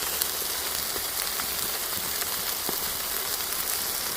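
Whole chickens sizzling on a grill grate over a wood fire: a steady hiss with scattered small pops as the fat runs off the meat.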